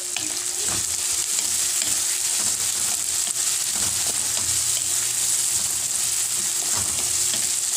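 Chopped garlic, onion and tomato sizzling steadily in hot oil in a metal wok, stirred with a wooden spatula that scrapes lightly against the pan now and then.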